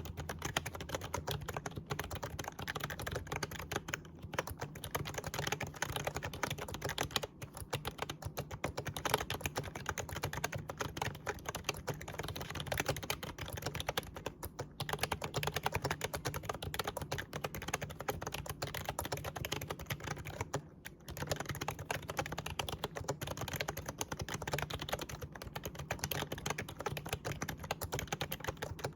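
Fast, continuous typing on an Actto retro mini Bluetooth keyboard, a typewriter-style membrane keyboard, with its keys clacking. There are a few short pauses, near 7, 14 and 21 seconds in.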